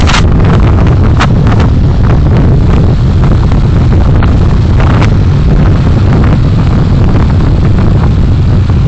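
Road and engine noise from a car on the move, heard through a dashcam: a loud, steady low rumble, with a few brief knocks.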